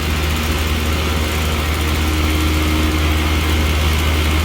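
Rooftop air-conditioning unit running: a steady low hum from its refrigerant compressors under the even rush of the condenser fans.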